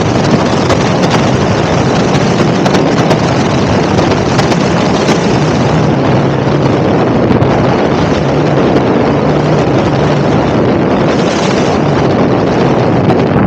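Heavy wind noise buffeting the microphone of a camera on an electric motorbike riding at speed, with a faint steady low hum underneath.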